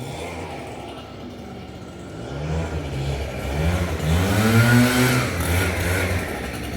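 A motor vehicle's engine revving up and down in several surges, its pitch rising and falling each time, loudest about four to five seconds in.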